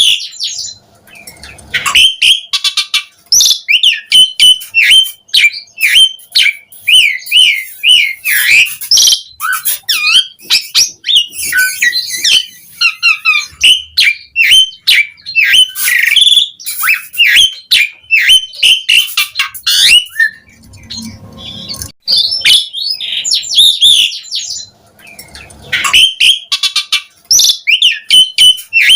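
Asian pied starling singing a long, rambling song of rapid chirps, whistles and harsh clicks, easing off briefly about two-thirds of the way through.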